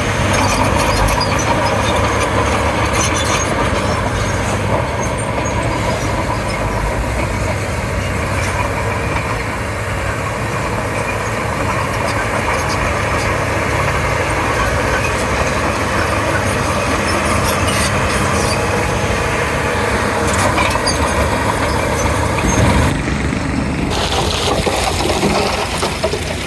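Komatsu D31P crawler bulldozer working: its diesel engine running steadily under load, with a continual metallic clatter.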